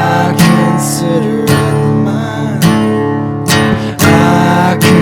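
A song's instrumental stretch: acoustic guitar strumming in a steady rhythm, with a sliding melody line over it.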